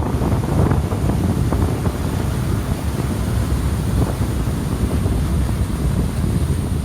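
Strong wind buffeting the microphone over the steady rumble of heavy surf: rough sea stirred up by an approaching typhoon.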